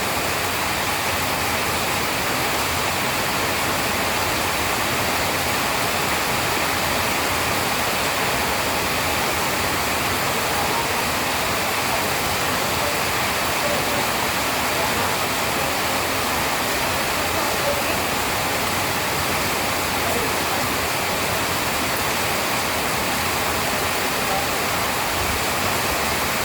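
Steady rainfall, an even unbroken hiss with no thunder.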